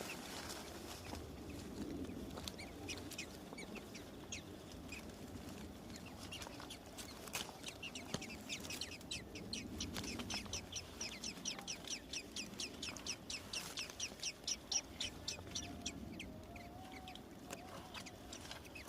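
Small birds chirping: scattered high chirps, then from about halfway in a fast, even run of high peeps, about five a second, that stops a few seconds before the end. These are typical of blue-gray tanager (azulejo) nestlings begging.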